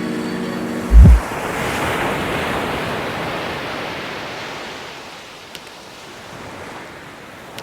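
A deep thump about a second in, then a rushing noise that swells and slowly fades away.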